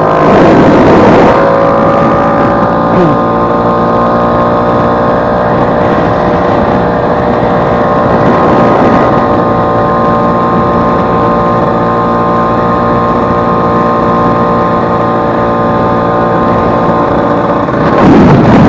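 Vespa 150 scooter's single-cylinder two-stroke engine running steadily under way, its pitch rising a little in the first couple of seconds and then holding even, with a brief rush of noise near the start and again near the end. The engine runs smoothly, with no knock, its broken elastic pinion replaced.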